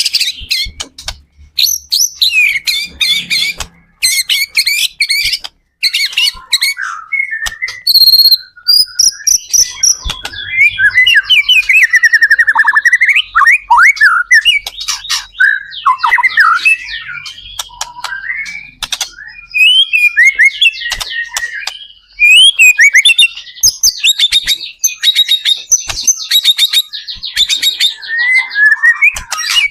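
White-rumped shama (murai batu) singing loudly in a long, varied run of whistles, trills and harsh chattering phrases, with brief pauses.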